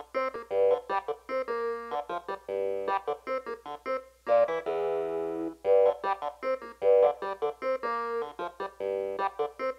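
Keyboard playing a funk riff alone: short, detached chords in a syncopated pattern, with one longer held chord about halfway through, before the rest of the band comes in.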